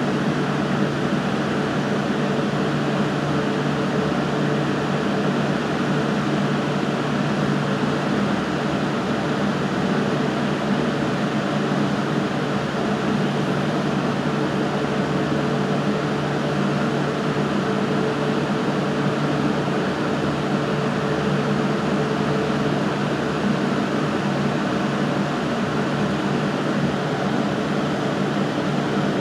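Steady mechanical hum with a constant hiss, like an air conditioner or fan running, unchanging throughout.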